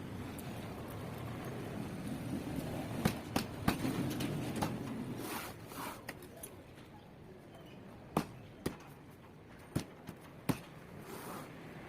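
Scattered sharp clicks and knocks from hand work, about eight in all, in two groups, over a low rumbling noise in the first half.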